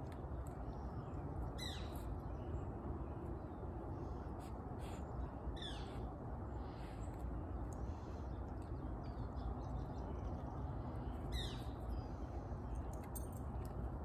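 A bird gives three short calls, each falling sharply in pitch, spaced several seconds apart, over a steady low outdoor background rumble.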